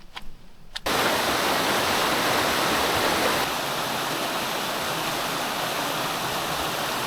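Waterfall in heavy flow after a lot of rain, a loud steady rush of water that starts abruptly about a second in and drops a little in level about three and a half seconds in.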